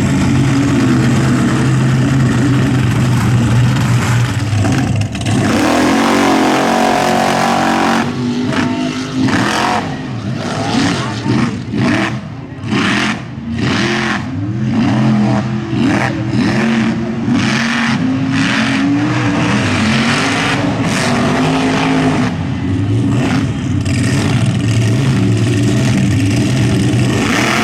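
Mud bog truck's engine running loud and revving hard, its pitch rising and falling as the throttle is worked. From about eight seconds in to past twenty seconds the sound turns choppy and uneven before steadying again.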